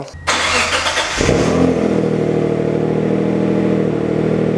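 Dodge Stealth's twin-turbo 3.0-litre V6 being started: a short burst of cranking, then the engine catches about a second in and settles into a steady idle through the stock factory exhaust and muffler.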